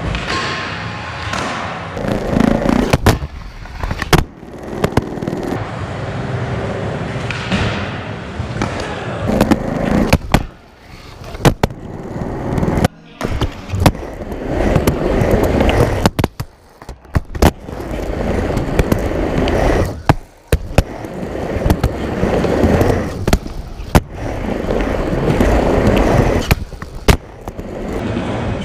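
Skateboard rolling: a steady wheel rumble broken again and again by sharp clacks of the board popping and landing, with a few short drops where it goes quiet.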